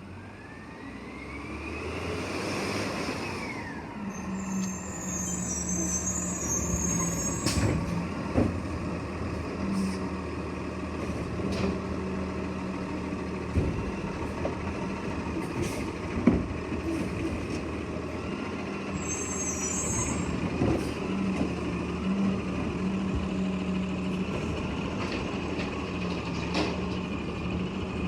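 Garbage truck running, its engine hum steady, with a whine that rises and then falls over the first few seconds and a few sharp bangs along the way.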